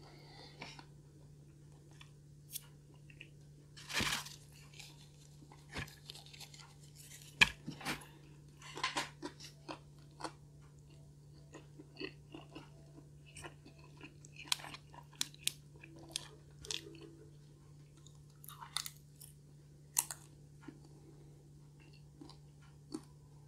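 A person chewing a mouthful of stuffed-crust pizza close to the microphone: irregular wet chewing with crunches, the loudest cluster about four seconds in and a sharp click at about seven and a half seconds.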